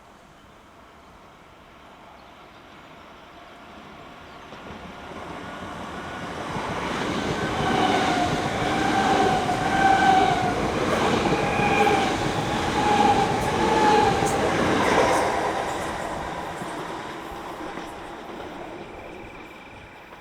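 A passenger train passing through on the main line. It approaches over several seconds, is loudest for about seven seconds with a wavering whine over the rail rumble and a few sharp clicks, then fades away.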